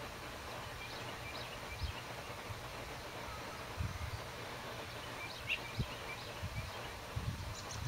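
Small birds giving short, high chirps every second or two over a steady outdoor background, with a few soft low thumps in between.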